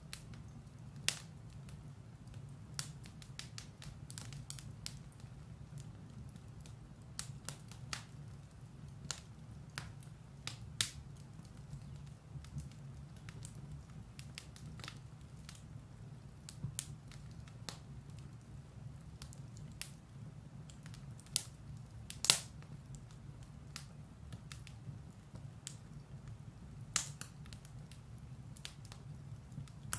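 Firewood burning in a fireplace: irregular sharp crackles and pops over a steady low rumble of the fire, with one louder pop about two-thirds of the way through.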